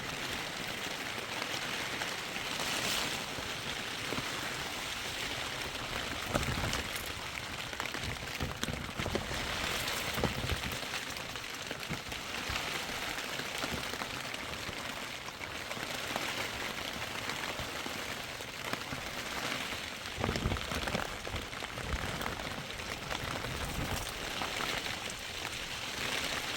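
Steady rain falling, with many small drop impacts.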